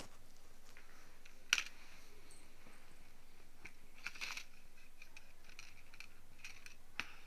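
Crisp crackles and scratches of an ear-cleaning scraper working inside an ear canal, close up. The sharpest crackle comes about one and a half seconds in, a cluster follows around four seconds, and another comes near the end, with faint ticks between them.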